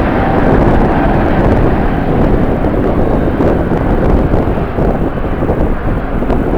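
Strong wind buffeting the microphone, a loud gusty rumble, over the steady roar of a jet airliner's engines.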